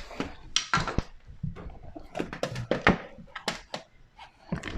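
An irregular run of knocks and thunks from a dishwasher being handled and shifted in its cabinet opening.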